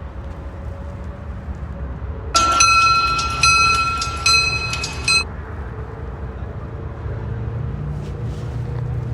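Diesel freight locomotive rumbling steadily. About two seconds in, a loud high-pitched tone cuts across it: one long blast, then a sharp restart and two short blips, stopping about five seconds in.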